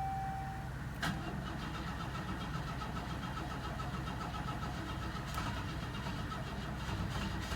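A steady beep stops under a second in; about a second in a click, then the 1988 Oldsmobile Cutlass Ciera's starter cranks its engine with an even, steady rhythm. It is a cold start on a car that has sat a long while on a weak, freshly charged battery, and it takes some cranking to catch.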